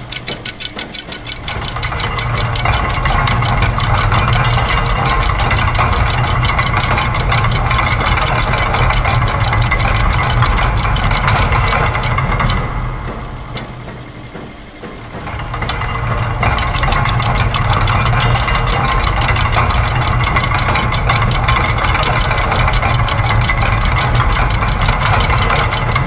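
Layered loops of factory machine sounds: dense, rapid mechanical clicking and rattling over a steady low hum. About halfway through it thins out briefly, then swells back to full.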